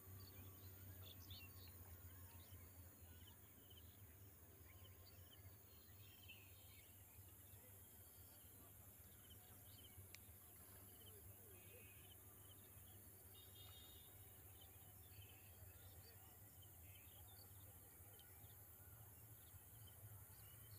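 Faint rural ambience: scattered short bird chirps over a steady low hum and a steady high hiss.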